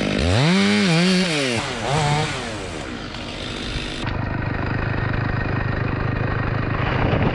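Two-stroke chainsaw revved up and down several times, its pitch rising and falling. From about four seconds in it gives way to a steady, even engine note that sounds duller.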